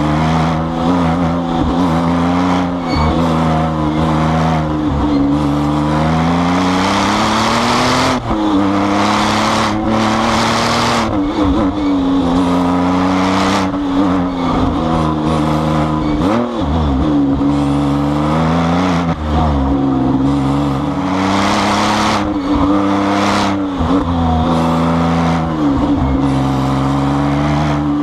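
Twin-turbo Porsche 911 GT2's flat-six engine, tuned to about 700 hp, being driven hard: the pitch climbs and drops again and again through acceleration and gear changes, with a couple of stretches of hissing noise on top.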